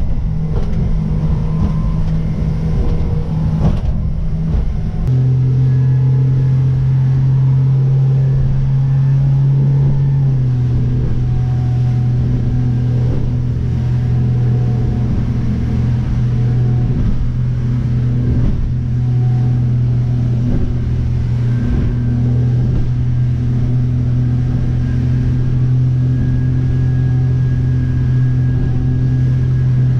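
Motorboat engine running steadily under way. Its pitch steps down about five seconds in and again slightly around ten seconds, as the throttle is eased, over a rough rush of wind and water.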